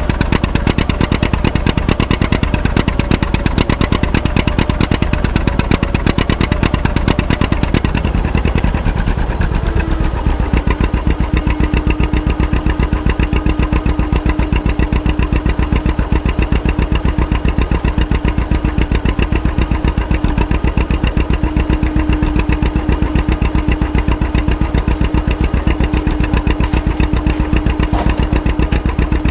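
Antique tractor engine running loudly with strong, even firing pulses; about nine seconds in it eases off and settles into a steadier run with a constant hum.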